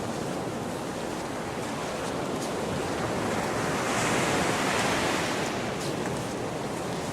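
Gulf of Mexico surf washing onto the beach, a wave breaking and swelling louder about halfway through, with some wind on the microphone.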